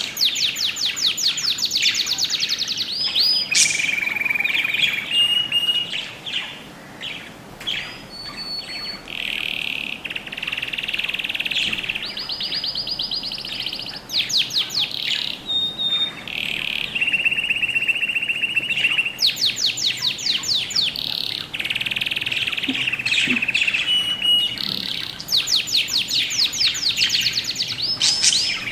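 Small birds chirping and singing: fast rattling trills alternating with held whistled notes, the phrases repeating every few seconds.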